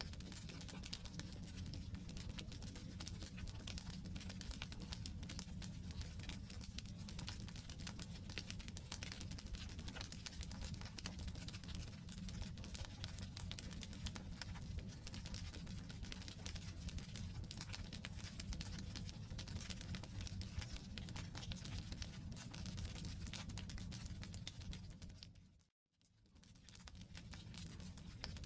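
Wood campfire burning: a dense, steady crackle of small pops and snaps over a low rumble of flames. About 26 seconds in, the sound briefly dips to silence and fades back in.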